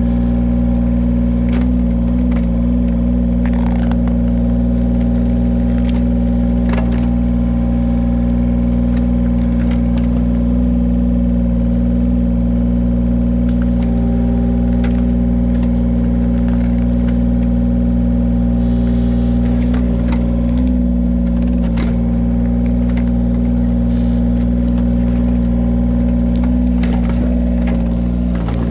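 Engine of a firewood-splitting machine running steadily, its pitch dipping briefly twice as if under load, with scattered sharp knocks and cracks.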